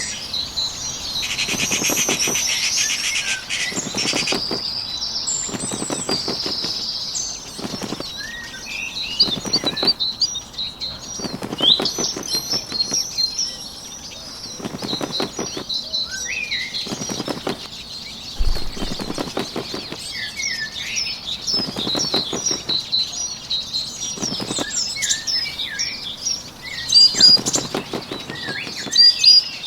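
Bird wing flaps in repeated short bouts, about every second and a half, over a steady chorus of small birds chirping and twittering, as a nature-ambience sound effect.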